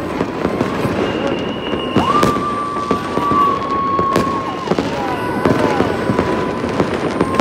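Fireworks display: bangs and dense crackling throughout, with a long whistling tone about two seconds in that holds for about two seconds.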